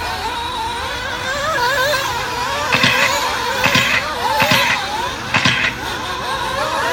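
Nitro RC buggy engines racing, a high-pitched whine that wavers up and down with the throttle. From about halfway through, short louder bursts come roughly once a second.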